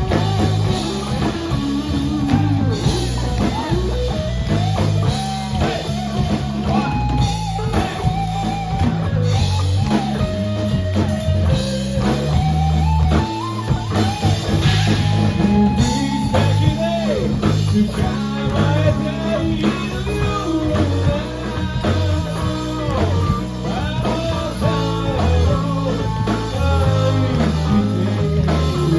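A rock band playing live: guitar lines wavering over a stepping bass line and a drum kit.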